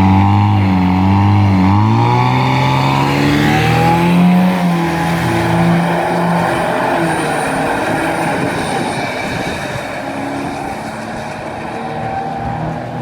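Detroit Diesel turbo diesel engine of a tow truck at full throttle on a drag run. The pitch drops briefly about a second and a half in, as at a gear change, then climbs for a few seconds. After that the sound steadies and slowly fades as the truck pulls away.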